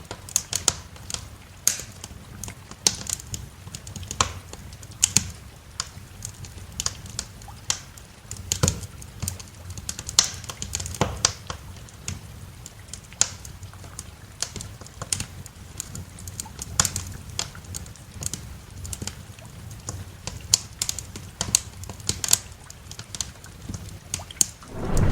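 Wood fire crackling in a fireplace: irregular sharp pops and snaps, several a second, over a steady low rumble. A deeper rumble swells right at the end.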